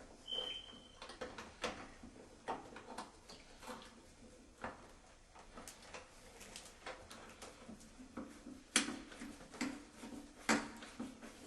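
Scattered clicks and knocks, as of objects being handled, with a short high squeak about a third of a second in. Louder knocks come near the end.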